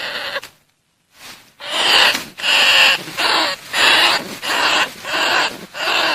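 Bandicoot rat calls: a quick series of noisy squeals, about two a second after a short gap near the start, played as a lure call to draw rats in.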